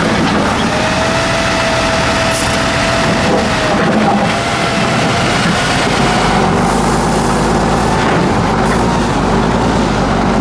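Tatra 8x8 trial truck's turbo-diesel engine running hard off-road. A thin whine wavers over it from about a second in, and the low rumble grows heavier from about six seconds in.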